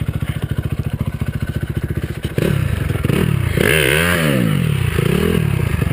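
Honda CRF250R's single-cylinder four-stroke engine idling with even firing pulses, then revved up and down several times from about two and a half seconds in.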